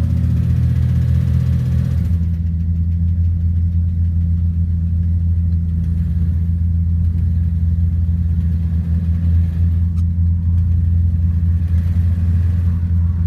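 Chevy V8 pickups idling after a cold start. The loudest is the 1979 Chevy C20's bored-out 350 with dual exhaust, running loud and steady on choke, which drowns out the just-started 1986 Chevy C10. One part of the engine note drops out about two seconds in.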